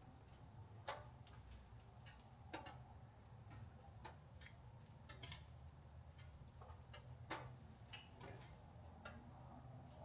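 Near silence: a faint low hum with sharp, irregular ticks and clicks every second or two.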